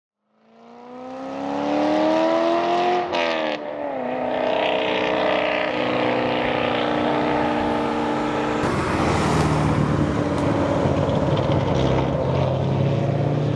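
Car engine accelerating with a rising pitch, which drops briefly about three seconds in and then holds steady. About nine seconds in, louder road and wind noise takes over. The sound fades in at the start.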